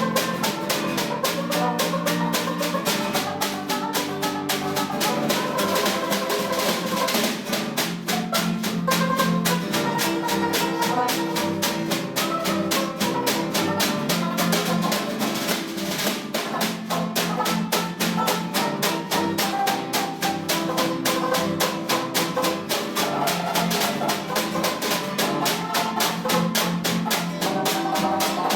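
Jazz music with a drum kit playing rapid, even snare strokes throughout, under chords and a melody line.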